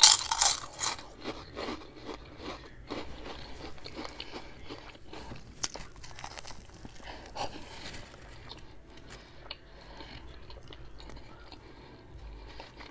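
A person biting into a crunchy snack chip with a loud crunch, then chewing it with many crisp crunches that grow fainter. About halfway through there is a bite into a soft sandwich roll, followed by quieter chewing.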